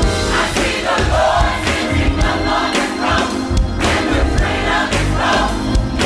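Gospel choir singing with a full band: sustained chords, bass and a steady drum beat.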